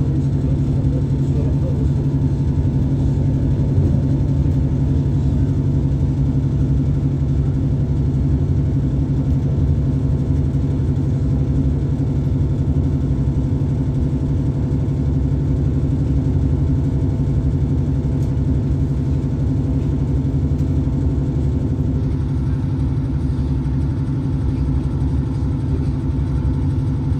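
Diesel passenger train heard from inside the carriage while running along the line: a steady engine drone with constant hum tones and continuous wheel-on-rail rumble.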